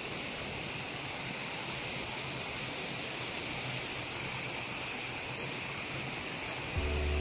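Steady rush of waterfall water. A loud low tone from music comes in just before the end.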